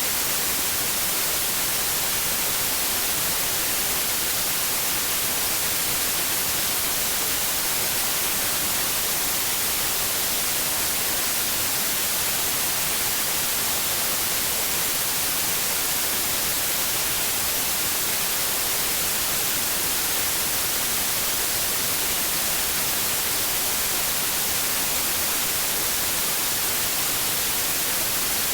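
Steady white noise, an even unbroken hiss strongest in the high frequencies, played as a sleep aid for babies.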